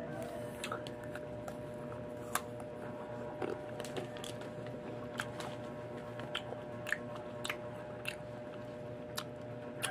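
Close-up chewing and biting of crisp, unripe green mango: a string of about fifteen sharp, irregular crunches and mouth clicks, over a faint steady hum.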